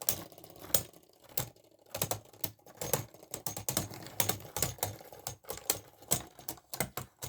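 Irregular clicking and clacking of hard plastic Beyblade Burst parts being handled and twisted together.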